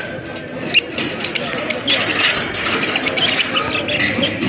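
A flock of lovebirds chattering, with rapid high chirps that grow dense about two seconds in.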